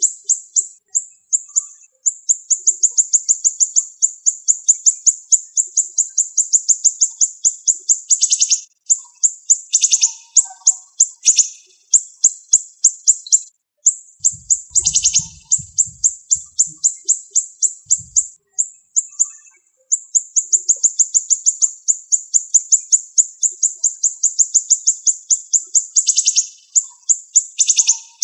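Siri-siri bird singing: long runs of rapid, high-pitched repeated notes, each run lasting several seconds, broken by short pauses.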